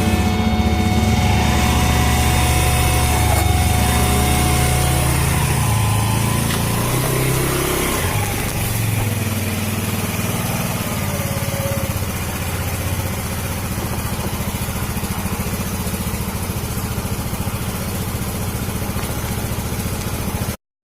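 A motorcycle engine running, its pitch shifting over the first several seconds and then holding steady at idle; the sound cuts off suddenly just before the end.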